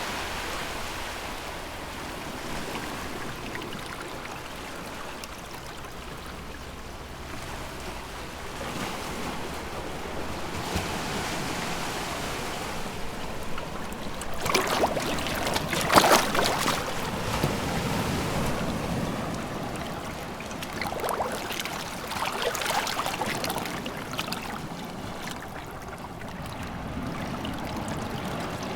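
Sea waves washing ashore: a steady wash of water that rises and falls. A bigger wave breaks with a loud splash just past halfway, and smaller surges follow.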